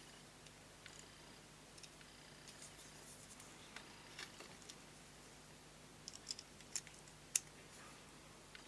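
Faint, scattered light clicks and small scrapes of small hard objects being handled, with a cluster of sharper clicks about six to seven seconds in and one distinct snap about seven seconds in.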